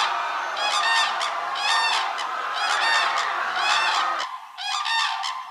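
A flock of geese honking, many short calls overlapping in quick succession. The low background rumble cuts out suddenly about four seconds in.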